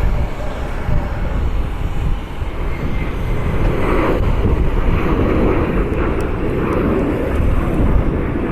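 Jet airliner engines running, a steady, loud rumble that swells somewhat partway through.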